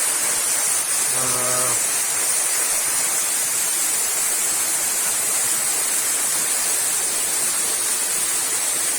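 Small waterfall rushing, a steady hiss of falling water. A short hummed or voiced sound is heard about a second in.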